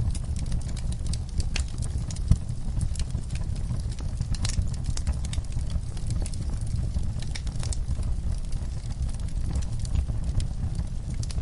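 Wood fire burning in a fireplace: a steady low rumble of flames with frequent small crackles and pops, one louder pop a little over two seconds in.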